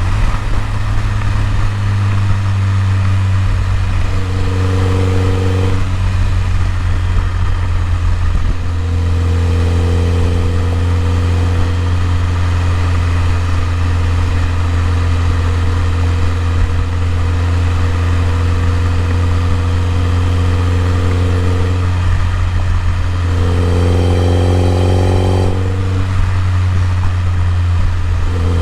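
BMW E30 M3's four-cylinder S14 engine idling steadily after the revs drop back. Twice, a brief higher tone joins the steady idle note.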